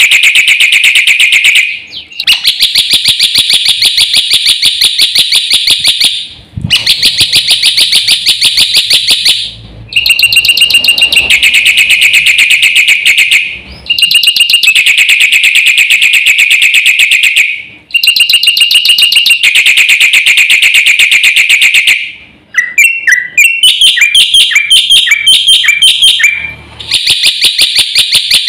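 Black-winged starling (jalak putih) singing: long, loud, rapid buzzy trills in phrases of about four seconds, separated by short breaks. About three-quarters of the way through, a run of varied quick chirping notes breaks in before the trills resume.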